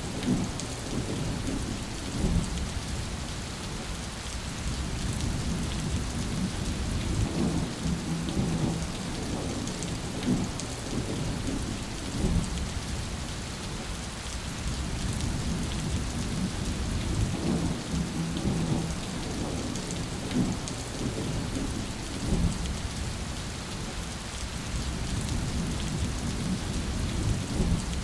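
Continuous rushing water, like heavy rain, with a low rumble that swells every few seconds.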